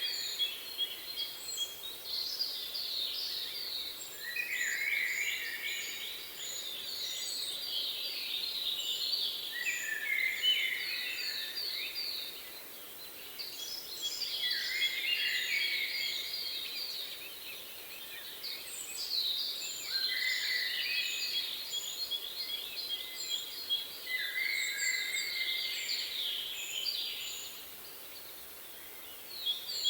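Several songbirds singing together, with rapid trills and falling whistled notes in bouts that come and go every few seconds and briefly ease off twice.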